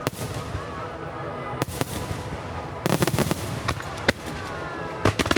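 Fireworks shells bursting in a starmine display: a bang at the start, another about a second and a half in, a quick cluster of bangs around three seconds in, then single bangs before a last pair near the end. Faint held tones of background music run underneath.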